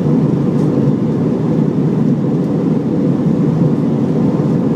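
Airliner cabin noise in flight: a steady, low rush of engine and airflow noise.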